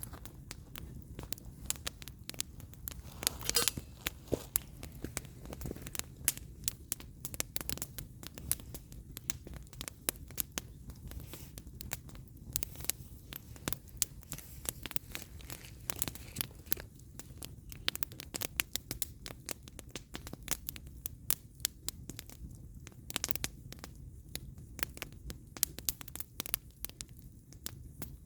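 Split firewood burning in an open fire, crackling with many irregular sharp pops and snaps over a low, steady rumble.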